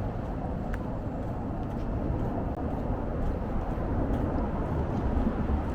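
Steady low rumble of vehicle traffic in an outdoor urban setting, with a few faint ticks.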